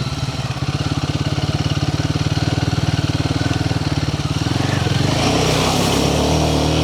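The single-cylinder engine of a Royal Enfield Himalayan 450 motorcycle running at low, steady revs as it is ridden through a river crossing. From about five seconds in, a loud rush of splashing water joins the engine.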